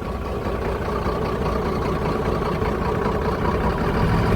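Mercedes truck diesel engine idling just after a cold start-up, running with a misfire; the scan tool logs a faulty unit pump on cylinder 4. The sound grows slightly louder near the end.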